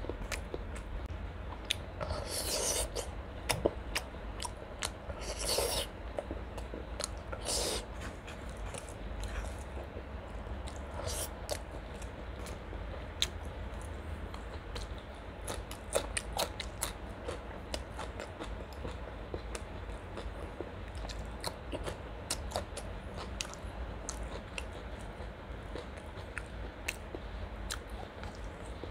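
Close-miked eating of chicken liver, gizzard and curried rice: steady chewing with many small wet mouth clicks and smacks, and a few louder crunchy bites in the first eight seconds. A low steady hum lies underneath.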